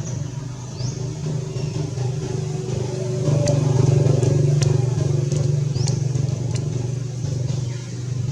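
A steady low motor drone, like a passing or idling vehicle engine, louder from about three seconds in. A few short high chirps sound over it.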